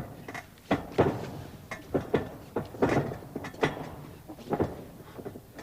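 Irregular sharp thuds and slaps from wrestlers' strikes and falls on the ring mat in a gymnasium hall, mixed with short shouts from the crowd.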